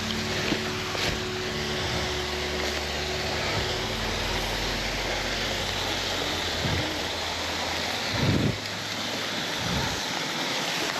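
Waterfall in full flow, a steady rushing of falling water, with a brief low thump about eight seconds in.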